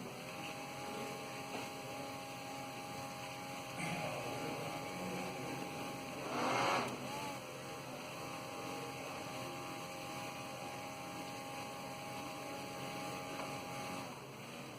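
Small electric propeller motor of a helicopter pendulum rig running with a steady whine. About four seconds in the pitch wavers, and about six and a half seconds in there is a louder rush of noise while the pitch dips and recovers, as the motor speed changes to reject a disturbance.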